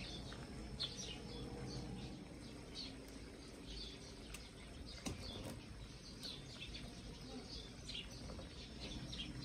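Birds chirping, short high calls repeating irregularly, with one sharp click about halfway through.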